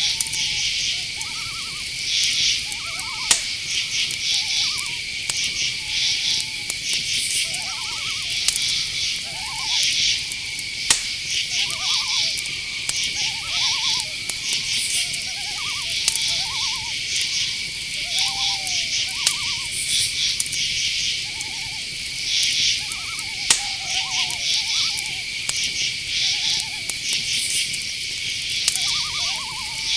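Night-forest ambience of crickets and other insects trilling continuously, with high pulsing chirrs over a steady high tone. Short owl hoots and calls recur throughout, and there are a few sharp ticks.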